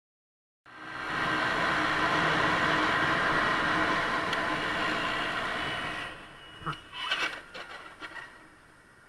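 Steady vehicle running noise that starts suddenly and fades about six seconds in, followed by a brief cluster of sharp knocks.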